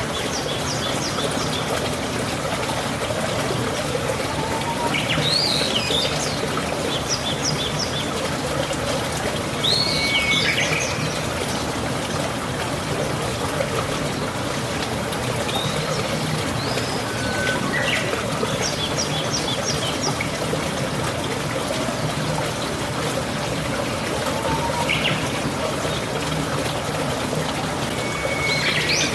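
Steady rain with a dense, even hiss, and birds chirping every few seconds with short quick trills and sweeping calls.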